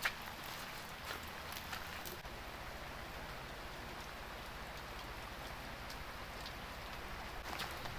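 Heavy rain falling steadily in an even hiss, with scattered sharp drip taps, one loud tap right at the start and a few more about a second or two in and near the end.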